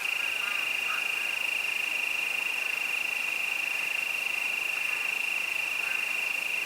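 Crickets singing in one continuous high trill, with a few faint short chirps underneath in the first second.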